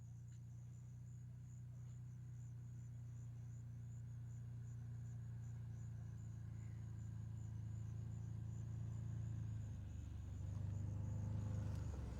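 Insects trilling steadily in a high, shimmering band over a low, steady mechanical hum that grows a little louder near the end.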